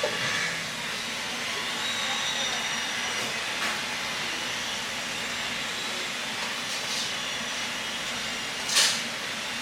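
A steady hiss, with a short louder whoosh near the end.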